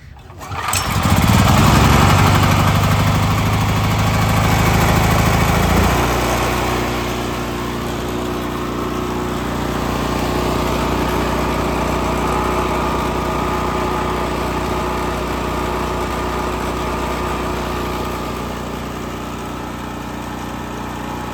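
Generac GP5500 portable generator's single-cylinder engine starting warm and catching within the first second, then running loud. About six seconds in its note changes and it settles into a steady, slightly quieter run.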